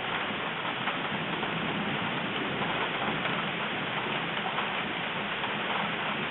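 Steady thunderstorm rain: an even hiss of rain with a fine patter of individual drops, holding a constant level throughout.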